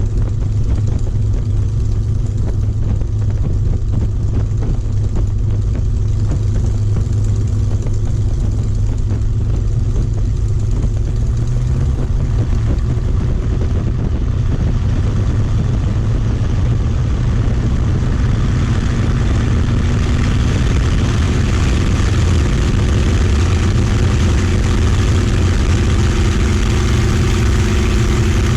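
Merlin V12 piston engine of a warbird fighter running steadily at low power, growing somewhat louder and brighter about two-thirds of the way through.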